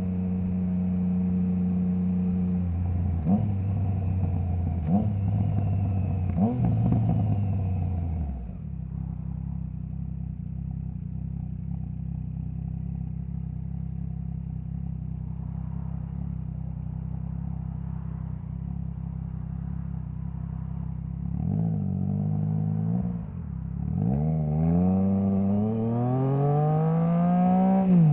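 Triumph Trident 660 inline-triple engine through a baffle-less Zard stainless full exhaust. It makes three quick downshifts a second or two apart, each with a sharp auto-blipper rev blip and the engine note stepping up. It then settles to a steady lower note for about thirteen seconds, revs briefly, and near the end climbs in pitch under hard acceleration until a gear change.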